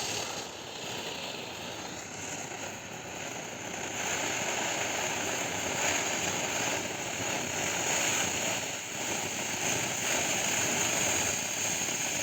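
White dragon fountain firework burning: a steady rushing hiss of spraying sparks with a high thin tone riding on top.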